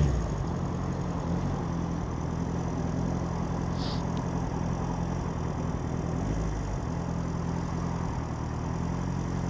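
1976 Honda CB400 Four's air-cooled inline-four engine idling at a steady, even pitch. A brief high click comes about four seconds in.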